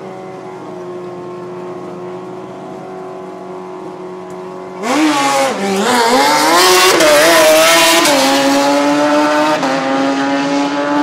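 A drag-race car's engine idles steadily, then about five seconds in revs hard with tyre squeal for about three seconds, as in a burnout. It then drops back to a steady idle.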